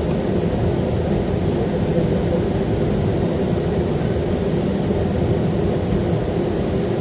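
Steady cabin noise of a Boeing 737-300 with its CFM56-3 turbofan engines running: an even rumble with a low hum, without pauses or changes.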